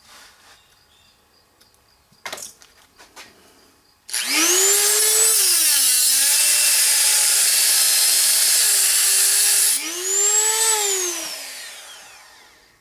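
Small high-speed electric grinding tool spinning up and grinding, its pitch sagging while it is under load, then cutting off; it is run once more briefly and winds down. A few handling clicks come just before.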